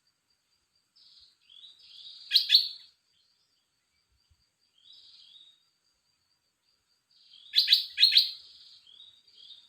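Red-whiskered bulbul singing: two short warbled phrases about five seconds apart, each peaking in a few sharp loud notes, with a brief softer phrase between them. A faint steady insect trill runs underneath.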